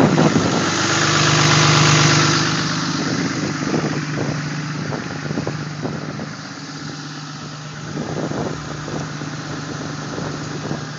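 Cummins straight-six turbodiesel in a Dodge Ram 2500 running steadily at high idle just after a cold start at 27 degrees, with the exhaust brake on. Wind blows on the microphone, loudest in the first few seconds and then easing off.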